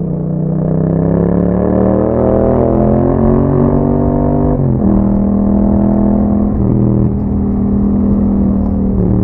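2021 Yamaha MT-07's 689 cc parallel-twin engine through an Akrapovic exhaust, pulling under acceleration with its pitch climbing, then an upshift about halfway through drops the revs before it runs on steadily.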